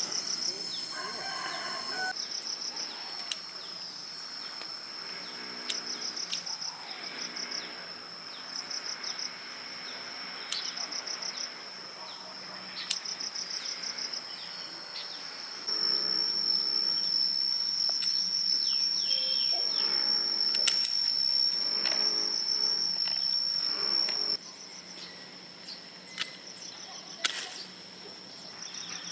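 Forest insects trilling in a high, steady note that pulses on and off, with one insect holding a louder unbroken buzz for about eight seconds midway. A few sharp clicks or knocks come through near the end.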